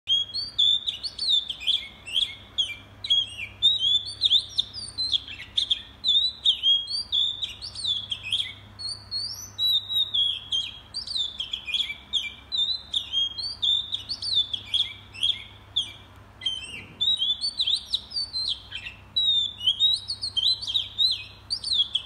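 A songbird singing continuously: a rapid, varied run of high chirps and short whistled notes with hardly a pause.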